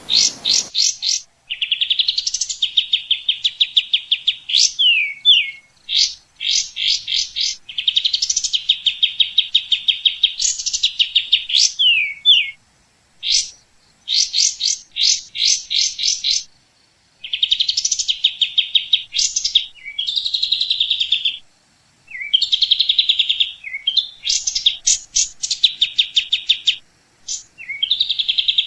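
Small songbirds singing: fast, high trills of rapidly repeated notes and short sweeping chirps, one phrase after another with brief pauses between.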